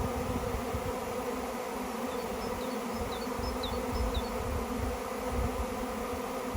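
Swarm of honey bees buzzing in a steady, even drone.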